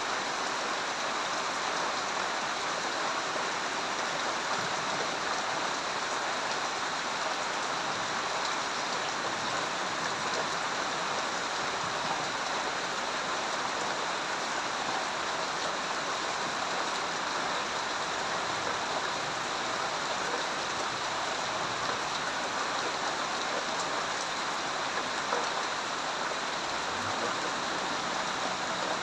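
Heavy rain falling steadily, an even unbroken hiss of rain.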